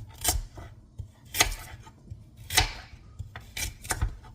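A series of rasping scraping strokes, five of them at uneven spacing of about a second, like something being scraped or rubbed hard.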